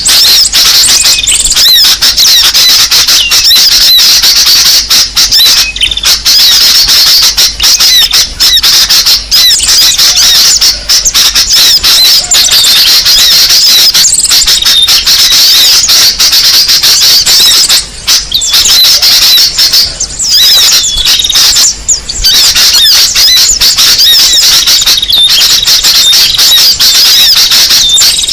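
Bird-luring call recording for small songbirds: dense, unbroken high-pitched chirping and twittering of many small birds at once. It is very loud and compressed, with a few brief dropouts.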